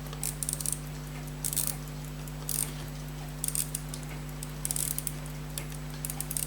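Small, light metal clicks and taps in short clusters about once a second, from tweezers and a screwdriver working on the pocket watch movement of an Elgin, with a steady low electrical hum underneath.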